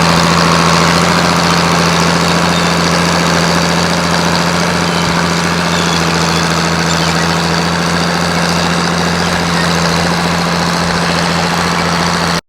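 Antique farm tractor engine running steadily and loudly at an unchanging pitch. It cuts off abruptly at the very end.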